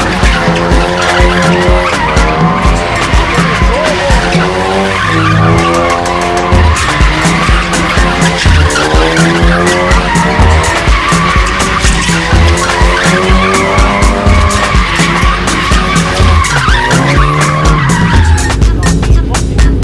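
Car doing donuts: tyres screeching continuously as the engine revs rise and fall. The screech stops about two seconds before the end.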